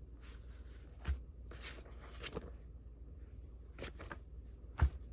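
Sheets of old handmade paper being handled: a few short rustles and taps, with a soft thump about a second in and a louder one near the end, over a low steady hum.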